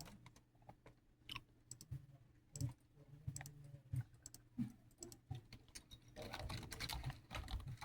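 Faint, scattered clicks and taps, with a denser rustling noise starting about six seconds in.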